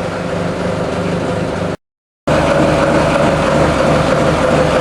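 TDME-490 58 hp marine diesel idling, heard from inside the boat's cabins, which have no soundproofing on the floor panels or bulkheads. The sound cuts out for half a second about two seconds in, then comes back slightly louder with a steady hum.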